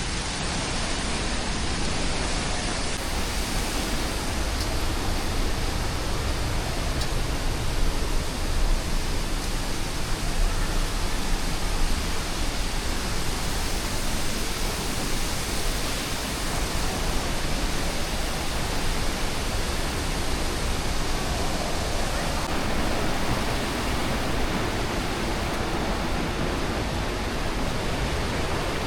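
A waterfall's water rushing steadily, an even hiss with a deep rumble beneath it.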